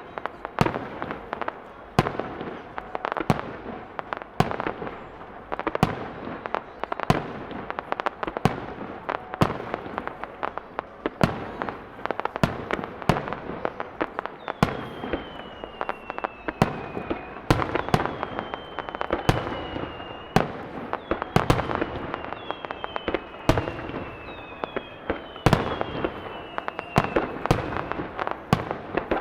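Aerial fireworks display: shell bursts going off in rapid, irregular succession, with crackle between the bangs. From about halfway, several whistles glide downward in pitch, one after another.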